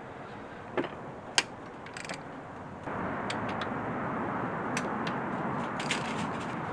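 Hand tools clicking and clinking on engine metal during a teardown, including a ratchet: a few sharp, scattered clicks, the loudest about a second and a half in, over a steady background hiss.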